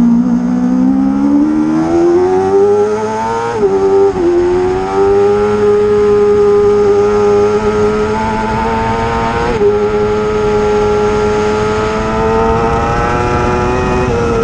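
Racing motorcycle engine running hard at high revs, its pitch dipping and then climbing, with several abrupt steps in pitch along the way that fit gear changes.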